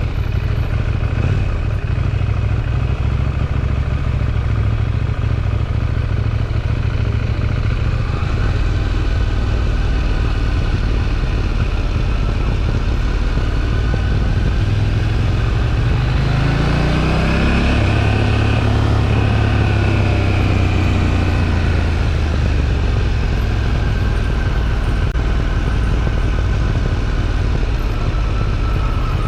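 KTM 790 Duke's parallel-twin engine through its stock exhaust, running at steady revs while riding. About sixteen seconds in the revs climb for a couple of seconds, then hold steady again.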